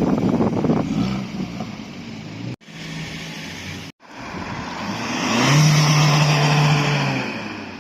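Car engines revving and accelerating, in three short clips separated by abrupt cuts. In the last clip a car's engine builds to a loud, steady held rev for a second or two, then fades.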